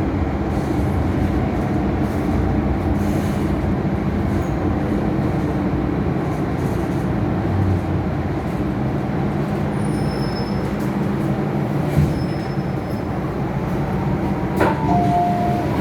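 Hong Kong MTR Island Line metro train, heard from inside a car: a steady low rumble of the train. Near the end there is a click followed by a two-note electronic chime.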